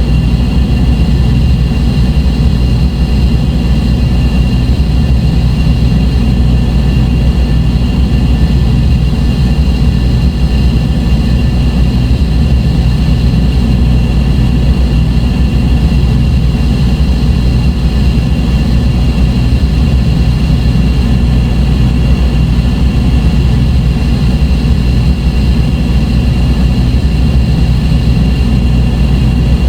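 Dark ambient drone music: a loud, unchanging low rumble like a heavy engine, with a few thin steady high tones held over it.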